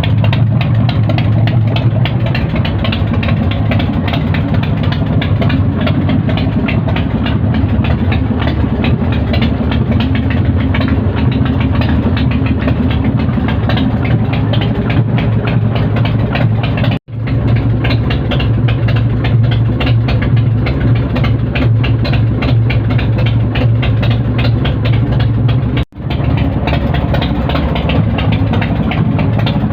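BigDog motorcycle's S&S V-twin engine idling steadily, running on freshly installed BigDog tappets. The sound drops out for an instant twice.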